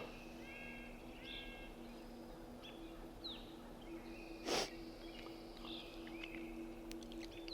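Woodland songbirds chirping and singing in short repeated phrases, over a faint low steady hum. About halfway through comes a single short noisy burst.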